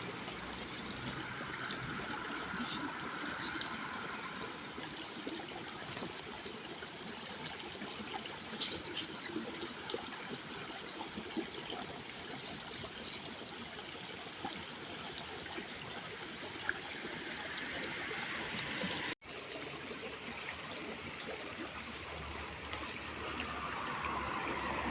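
Running water trickling steadily, like a small stream, with a few faint clicks. The sound drops out for an instant about two-thirds of the way through.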